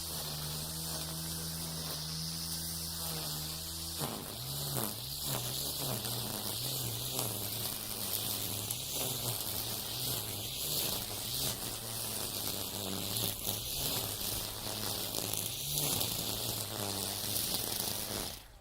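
Battery-powered Makita 40V string trimmer running, its nylon line spinning with a high hiss. The motor hum holds steady at first, then wavers up and down from about four seconds in as the line bites into overgrown weeds. Everything cuts off abruptly at the very end.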